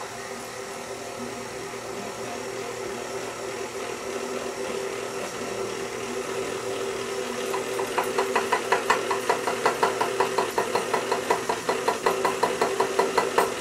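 Electric stand mixer running steadily, kneading yeast bread dough. About halfway through, a regular knocking of about three or four strokes a second joins in as the dough comes together in the bowl.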